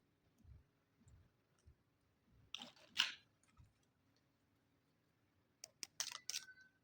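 Small plastic toy kitchen pieces being handled: a quick cluster of clicks and rattles about halfway through, then several sharp clicks near the end. A short steady tone begins just after them.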